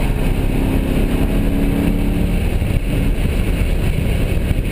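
1993 Ford Mustang's engine running at speed, heard from inside the cabin, mixed with road and wind noise; a held steady engine note drops away about two and a half seconds in.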